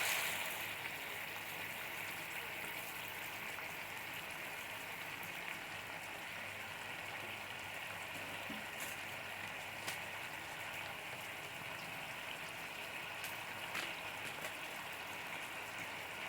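Curry frying in oil in a pan: a steady soft sizzle with a few faint ticks.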